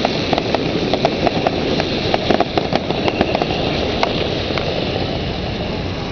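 Fireworks crackling: a scatter of short, sharp snaps over a steady background noise. The snaps thin out after about four seconds, leaving the steady noise.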